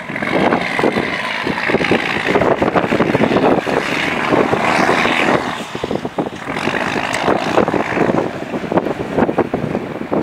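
Heavy wind buffeting the microphone over the running multifuel diesel engine of a 1973 M35A2 2½-ton army truck.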